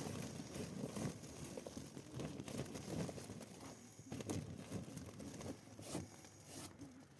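Irregular footsteps, soft crunching knocks and scuffs at an uneven pace, with a few sharper clicks.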